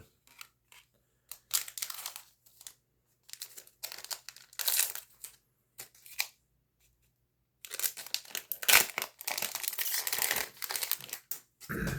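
Foil trading-card booster pack wrapper crinkling in bursts as it is handled and torn open, with a longer, denser stretch of crinkling from about eight seconds in.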